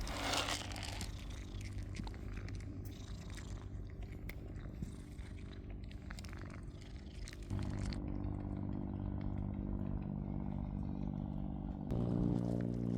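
Cat purring steadily while dry cat food is crunched, with small crisp clicks through the first half. The purring gets louder about halfway through and again near the end.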